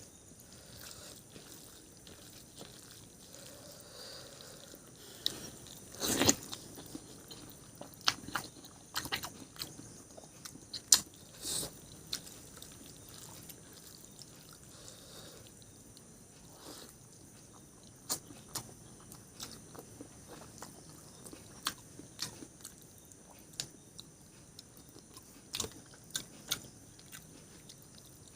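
Close-miked eating: chewing and biting food, with scattered sharp clicks and wet smacks at irregular intervals.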